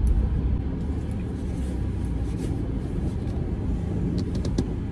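A car's engine running, heard from inside the cabin as a steady low rumble, with a few light clicks about four seconds in.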